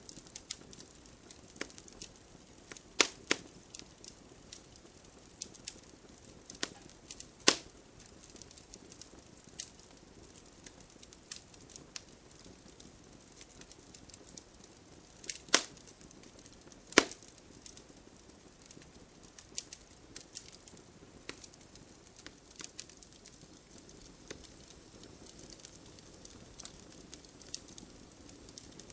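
Wood fire crackling, with a steady scatter of small sharp snaps and a handful of louder pops: two close together a few seconds in, one near the quarter mark, and two just past the middle.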